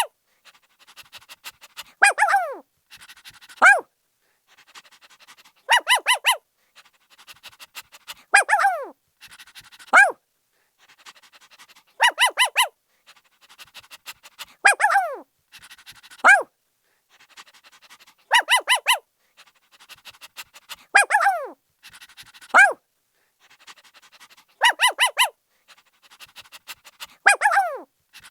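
A puppy barking in a repeating cycle about every six seconds: a quick run of three or four high yips, then two yelps that slide down in pitch, with faint quick panting in between. The same sequence recurs five times, so it sounds like a loop.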